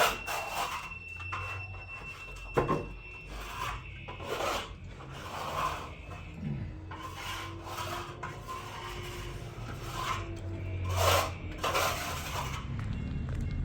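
Irregular rasping strokes against a surface, roughly one a second, with one sharp knock a few seconds in.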